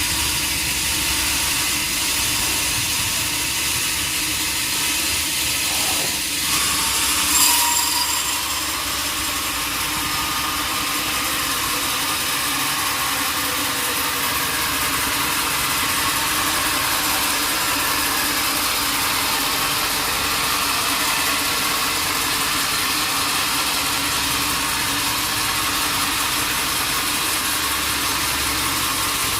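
Sawmill machinery running steadily, a continuous mechanical hiss and hum, with a brief louder burst about seven seconds in.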